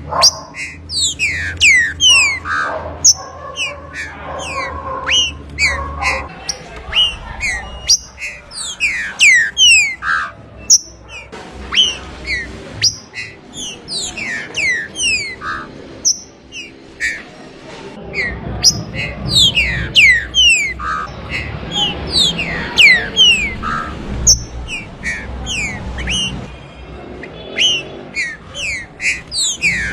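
Green-winged saltator (trinca-ferro) singing: a rapid, continuous run of loud, falling whistled notes, with a steady low hum underneath.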